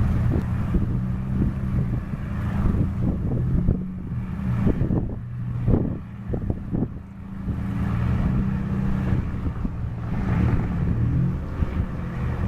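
Low steady engine drone with wind buffeting the microphone.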